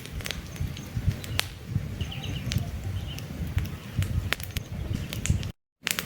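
Wood campfire burning, with frequent sharp crackles and pops over a low rumble of flames, and a few bird chirps in the background. The sound cuts out completely for a moment near the end.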